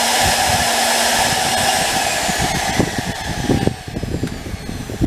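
Electric startup blower on a small charcoal gasifier running with a steady whine, then switched off and spinning down, its pitch falling and fading by about four seconds in. Irregular low knocks and thumps run under it and grow louder near the end.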